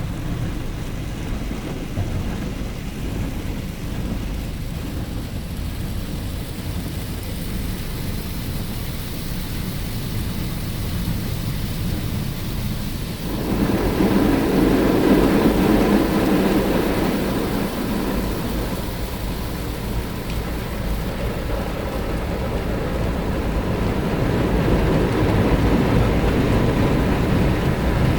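Automatic car wash running: a steady rumble with water spraying and drumming on the car's body. About halfway through, a louder rush of water starts and carries on.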